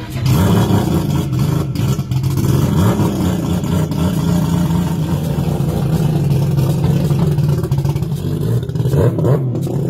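Mazda rotary engine running steadily at a loud, even pitch, starting abruptly at the beginning.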